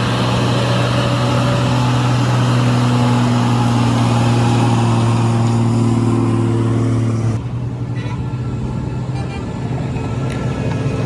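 Heavy truck engine running steadily with a strong low hum. About seven seconds in, the sound cuts abruptly to a quieter, duller engine sound.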